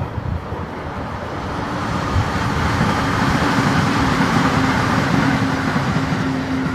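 An electric train passing, its rumble and rushing noise building to a peak mid-way and then fading, with a steady electric hum under it.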